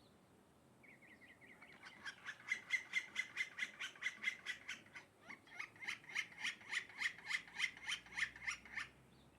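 A bird calling a long series of short, rapidly repeated notes, about five a second, with a brief break midway before it stops shortly before the end.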